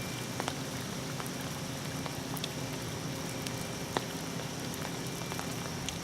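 Steady rain falling, with individual drops striking close by now and then, one a little louder about four seconds in.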